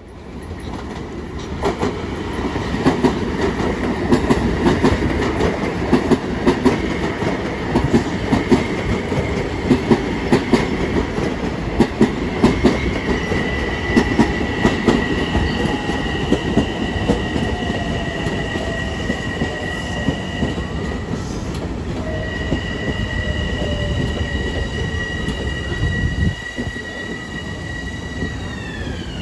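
Long Island Rail Road train passing at speed, its wheels clicking rapidly over the rail joints. About halfway in, a steady high whine sets in, and near the end it falls sharply in pitch.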